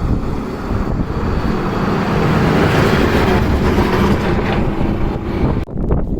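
Steady low rumble of a motor under wind buffeting the microphone, swelling toward the middle and breaking off abruptly near the end.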